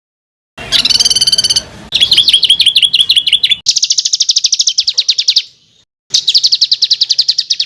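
A small songbird's rapid, harsh rolling trills: four high-pitched phrases of one to two seconds each, with the notes coming very fast. Each phrase cuts off into dead silence before the next.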